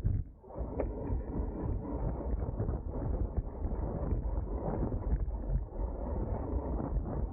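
Wind buffeting the microphone of a camera on a racing road bicycle at speed, a steady low rumble that dips briefly just after the start.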